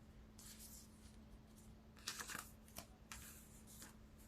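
Faint rustling of tarot cards being handled and slid against each other, in a few soft brushes over a low steady hum.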